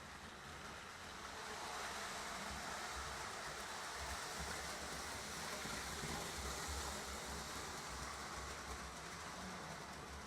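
Lionel O-gauge model trains running on the layout's track: a steady rolling whir and rumble that grows louder about a second and a half in and stays up.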